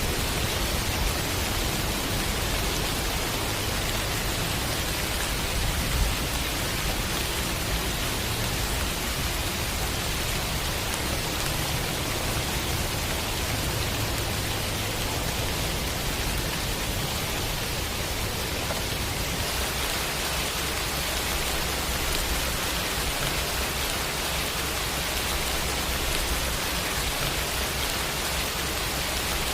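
Steady heavy rain: a dense, even hiss with no breaks, and a low rumble underneath.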